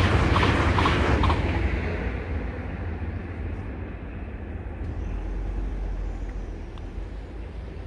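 Agilis regional train passing over the level crossing, its wheel clatter fading away over the first two seconds as it leaves. Then a lower steady rumble remains while the crossing barriers lift.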